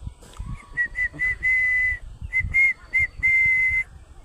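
Whistling at one steady pitch: a few short notes followed by a long held note, in two phrases, the second starting a little after halfway.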